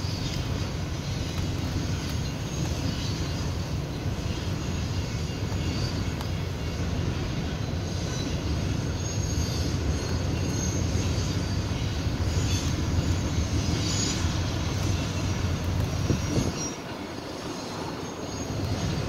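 Double-stack container well cars of a freight train rolling past: a steady rumble of wheels on rail, with brief high wheel squeals here and there. The rumble drops away for a second or so near the end, then picks up again.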